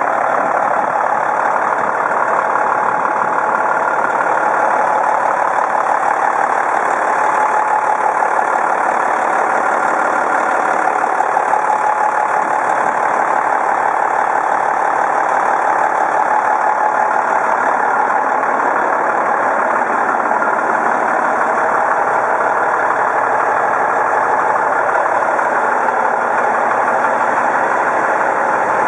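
Diesel engine of a 2003 International 9400 tandem sleeper truck tractor idling steadily, with no revving.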